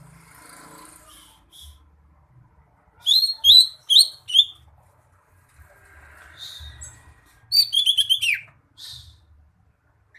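Green leafbird (cucak hijau) singing: a run of four loud, sharp notes a few seconds in, then after a pause a quicker chattering phrase that ends in a note sliding down, with softer calls between.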